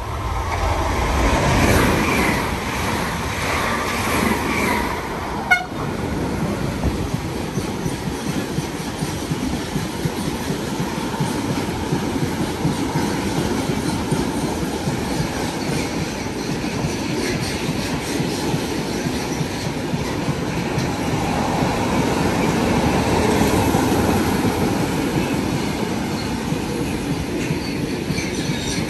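A train passing through on the rails, with a steady noise of wheels on track that lasts the whole time. There is a single sharp click about five and a half seconds in.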